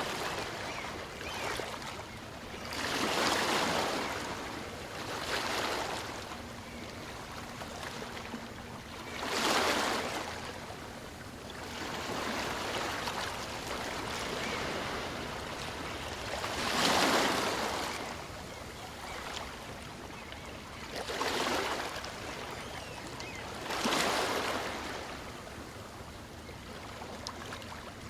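Small waves of a calm sea breaking and washing up a beach: about six surges of wash, irregularly spaced a few seconds apart, over a steady hiss of surf.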